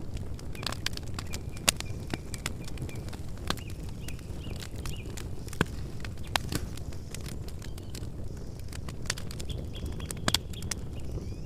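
Campfire burning: irregular sharp crackles and pops over a steady low rush of flame, with a few louder pops. Faint bird chirps sound in the background.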